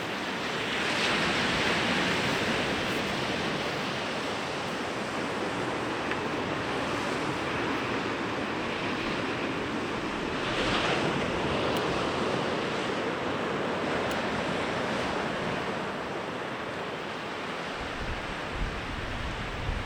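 Sea waves breaking and washing up a beach: a steady surf hiss that swells about a second in and again around ten seconds in. Wind rumbles on the microphone near the end.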